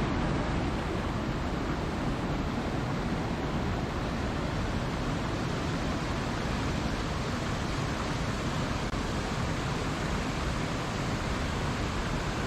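Steady rushing water, an even, unbroken roar weighted toward the low end, like a waterfall or heavy surf.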